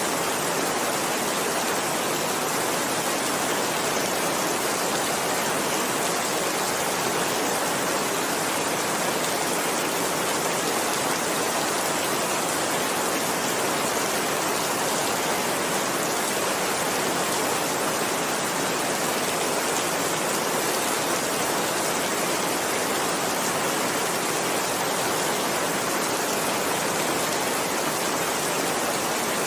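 Steady heavy rain: a dense, even hiss of rainfall with no distinct drops or breaks.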